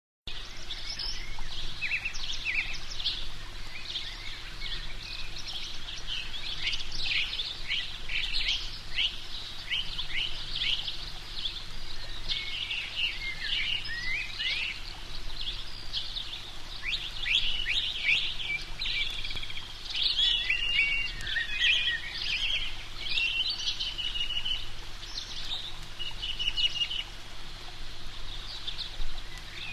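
Songbirds chirping and singing continuously, a dense mix of short chirps and trills, over a faint steady low hum.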